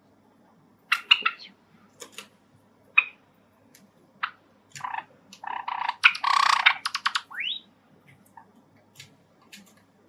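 Java sparrows calling: a few sharp chirps, then a burst of harsh squawking calls from about five to seven seconds in that ends in a rising note. Small clicks sound between the calls.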